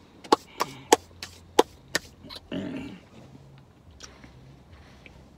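Mouth smacks from chewing food: about six sharp clicks in under two seconds, then a short breathy rustle.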